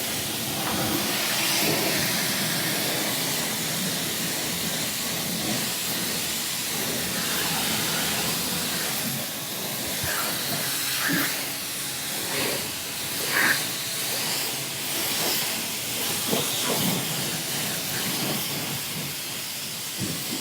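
Steady hiss of tyre and road noise, heard inside a car's cabin as it drives over wet, snowy road, with a few faint brief knocks and blips.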